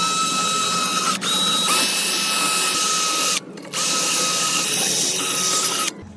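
An electric power tool's motor running with a steady high whine, run in three bursts with short pauses between.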